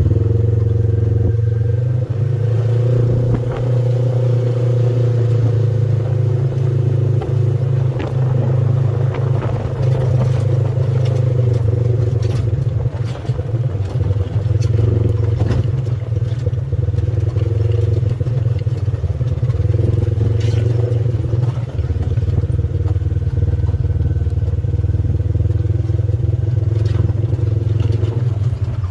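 Off-road vehicle's engine running steadily at low speed, with frequent clatter and knocks from the vehicle as it rolls over rough ground.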